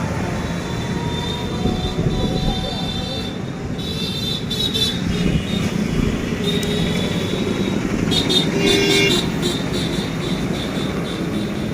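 Steady road traffic noise with vehicle engines running, and brief high-pitched horn toots about four to five seconds in and again around eight to nine seconds in.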